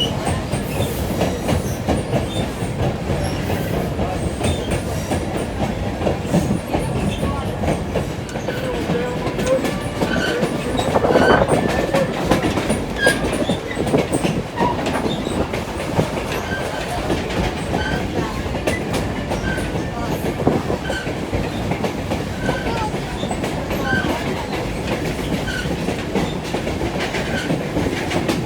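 Scenic-railway passenger train rolling along, its wheels running over the rail joints with a steady rumble and clatter as heard from aboard. About a third of the way in it briefly grows louder, with a faint thin squeal.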